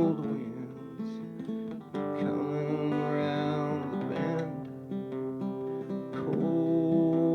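Acoustic guitar strumming sustained chords, a new strum roughly every two seconds.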